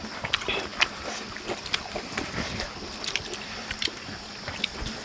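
People eating: irregular light clicks and smacks of chewing and handling food, over a steady high hiss.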